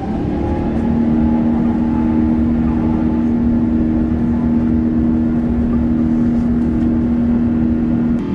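Airbus A350's Rolls-Royce Trent XWB turbofans spooling up for the takeoff roll. A whine rises over the first second, then settles into a steady drone over a broad roar, ending abruptly near the end.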